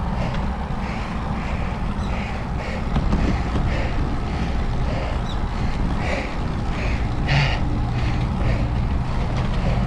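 Wind buffeting the microphone over a steady low rumble of riding, with faint soft rhythmic swishes about twice a second.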